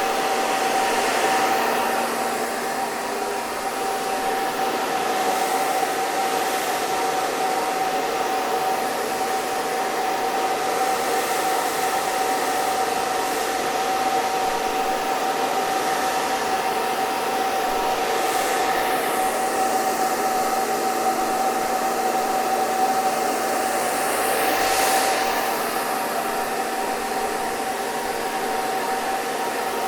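Hair dryer running steadily: an even rush of air with a constant whine in it. The airflow swells briefly twice, in the second half.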